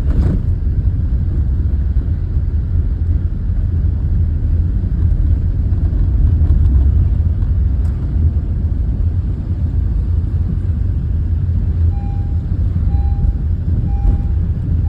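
Tractor engines running in a steady low rumble. Near the end a short beeping tone repeats about once a second.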